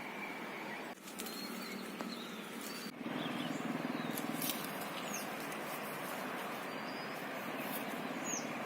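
Outdoor natural ambience: a steady hiss of background noise with a few short, high bird chirps now and then. The background changes abruptly twice, about one and three seconds in.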